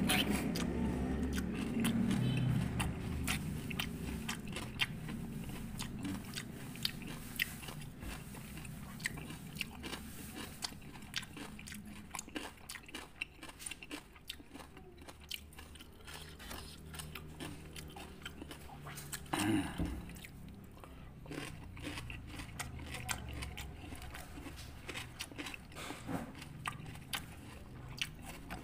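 Close-up crunching and chewing of fresh fruit pieces in rujak sauce, with many small irregular crunches. There is one louder knock about two-thirds of the way through.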